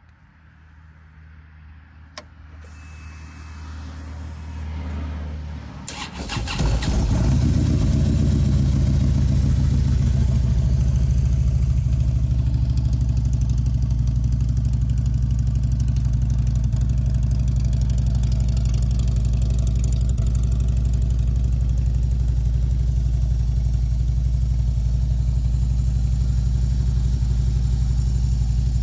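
Harley-Davidson Street Glide Special's 103-cubic-inch V-twin being started. A low hum builds with a click about two seconds in, then the engine catches about six seconds in and settles into a steady idle.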